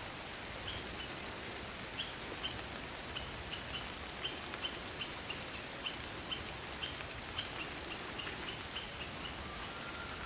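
Night-forest ambience: a steady hiss of rain and wind, with short high chirps repeating about two a second, some in pairs, which stop near the end.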